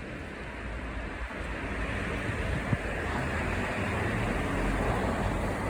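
Road traffic on a busy street: a steady wash of tyre and engine noise that slowly swells louder.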